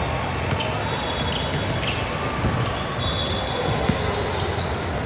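Basketball game in a gym: a ball bouncing on the hardwood with a few sharp knocks and short high squeaks, over a steady wash of crowd noise.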